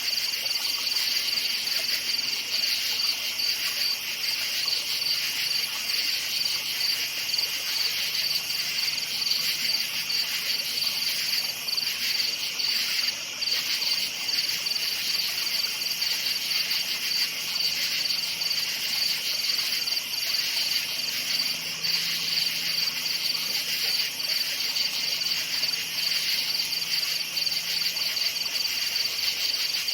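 Crickets chirping in a steady, continuous chorus of rapid high-pitched pulses, with two pitches of song layered together. A faint low hum runs underneath in the second half.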